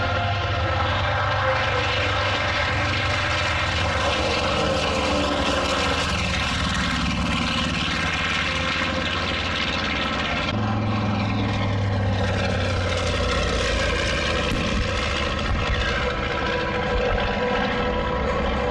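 Propeller-driven aerobatic airplane's engine running at high power, its note sliding up and down as the plane manoeuvres, with a sudden change in the engine sound about ten seconds in.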